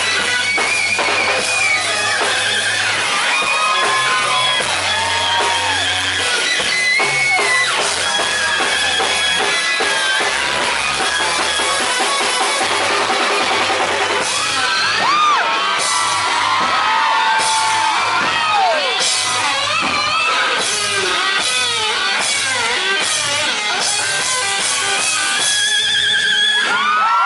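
Live rock band playing loudly, recorded from the audience in a concert hall: electric guitar with many bent and sliding notes over a pulsing bass line. In the second half the band hits a run of regular accented beats.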